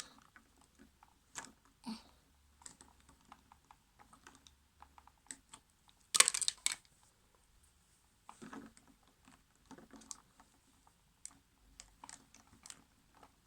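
Scattered light clicks and taps of hand tools on small parts while something is being tightened, with a louder brief clatter about six seconds in.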